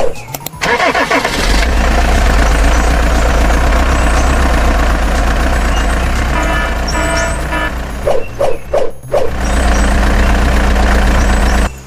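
A truck engine running steadily with a deep hum, with a quick run of beeps about halfway through and a few short knocks near the end.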